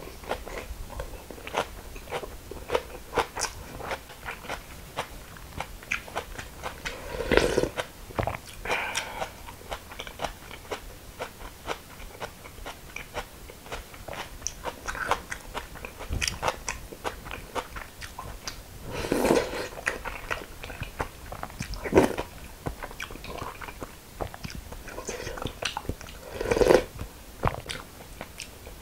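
Close-up eating sounds: a mouth chewing crisp raw young radish greens (yeolmu) in bibimbap, with many small crunches and a few louder mouthfuls.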